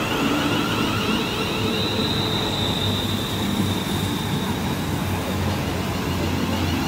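London Northwestern Railway Class 350 electric multiple unit running past close by along the platform: a steady rumble of wheels and traction, with a thin high whine for a few seconds in the middle.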